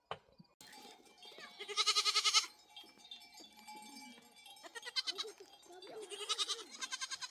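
Farm animals bleating: three loud quavering calls, the first about a second and a half in and the last near the end.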